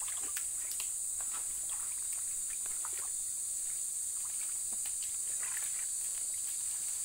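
Steady high-pitched buzzing of insects in the surrounding vegetation, with scattered small clicks and knocks over it.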